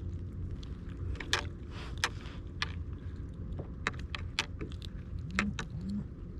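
A run of sharp, irregular clicks and taps over a steady low hum, with two short rising squeaks near the end.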